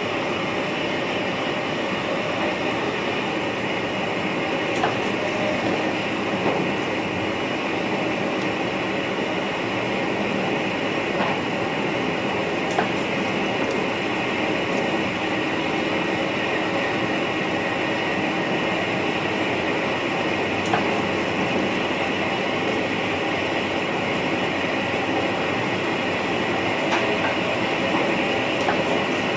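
Running noise heard inside the driver's cab of an NS VIRM double-deck electric train moving along the track: a steady rumble and hiss of wheels on rail, with a few sharp clicks scattered through it.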